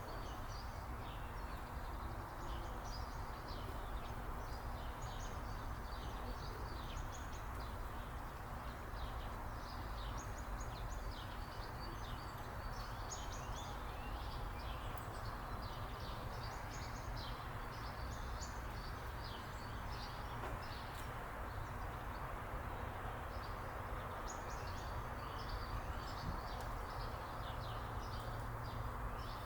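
Several small birds chirping and twittering in quick, overlapping short calls without a break, over a steady low background rumble.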